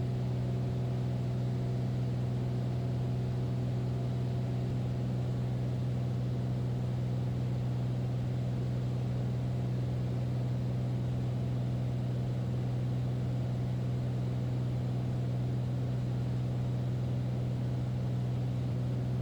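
Beechcraft Bonanza's single piston engine and propeller droning steadily in flight, a constant low hum with a few fainter steady tones above it.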